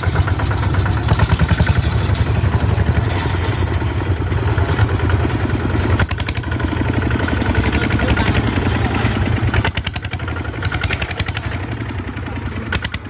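Tractor engine running steadily under way, with a rhythmic low chugging and some clatter.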